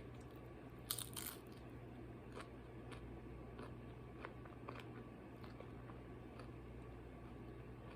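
Crunchy food being bitten and chewed close to the microphone: a loud crunch about a second in, then smaller crunches that die away around the middle. A low steady hum underneath.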